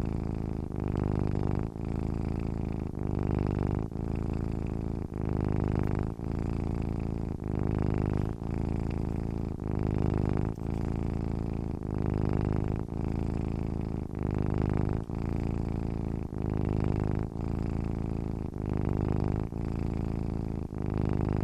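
A sleeping domestic cat purring steadily, a low buzz that swells and dips with each breath about once a second.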